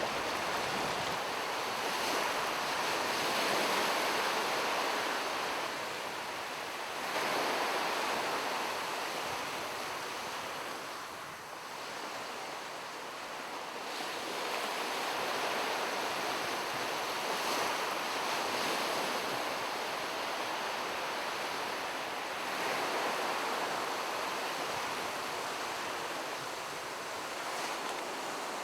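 Sea surf breaking on a beach: a steady rush of water noise that swells and fades every several seconds as the waves come in.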